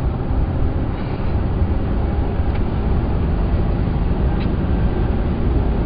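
Steady engine and road rumble inside the cab of a pickup truck being driven, picked up by a cell phone, with a couple of faint ticks.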